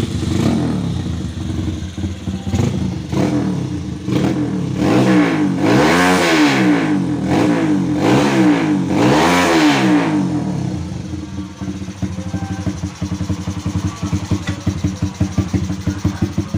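Honda GL100 motorcycle's single-cylinder four-stroke engine breathing through an aftermarket Fanterra exhaust, revved up and down repeatedly with the biggest revs in the middle. It then drops back to a steady, pulsing idle.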